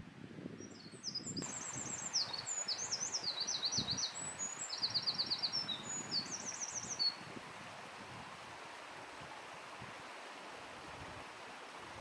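A Eurasian wren singing one long, rapid song of high trills and quick repeated notes that lasts about six seconds and stops abruptly, over a steady background hiss.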